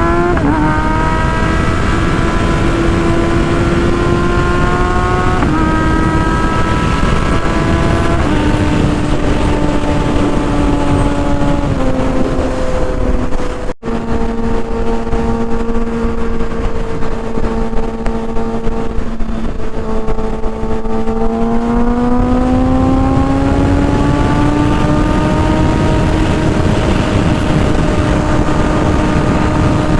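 Kawasaki ZX-6R's 636 cc inline-four running at high revs through an M4 GP exhaust. The pitch climbs at first, steps down in stages with a brief dropout about 14 seconds in, then rises again after about 21 seconds and holds high.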